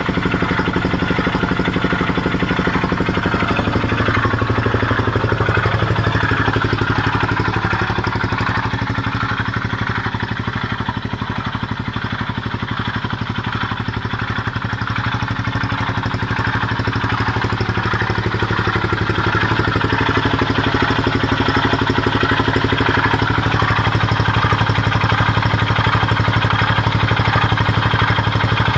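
Honda XL250S single-cylinder four-stroke engine running near idle with a pulsating grinding noise, the fault being recorded. Engine speed sags and picks up again twice.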